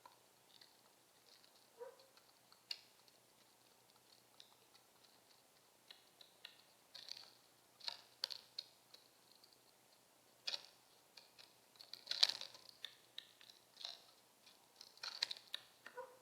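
Faint, scattered light clicks, taps and rustles from mourning doves moving about, busiest around the middle.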